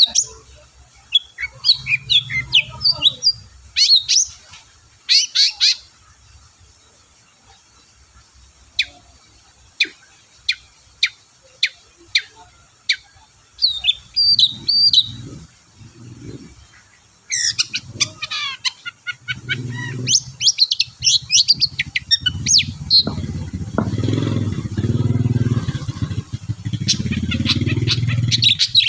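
Long-tailed shrike (cendet) singing: sharp single notes and quick chattering runs, sparse in the middle and dense near the end. A low rumble sits under the later part.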